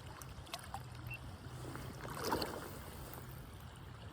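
River water running, with a brief splash of water a little past the middle.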